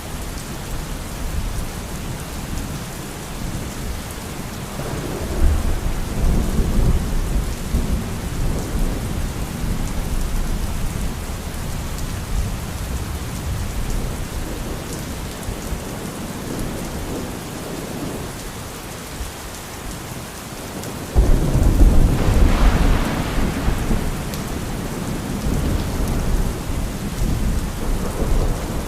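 Thunderstorm: steady rain with rolling thunder. A low rumble swells about five seconds in, and a sudden loud thunderclap breaks about 21 seconds in, rumbling on for several seconds.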